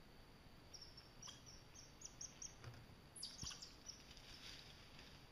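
Faint songbird calling: a run of short, evenly spaced high chirps about a second in, then a quicker, higher twittering phrase past the middle, over a quiet woodland hush.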